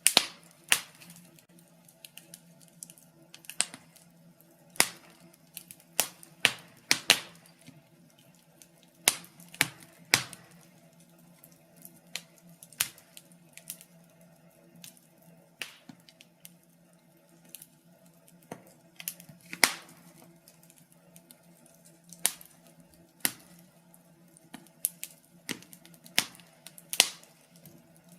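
Wood fire in a fireplace crackling: irregular sharp pops and snaps, some in quick clusters, over a faint steady hum.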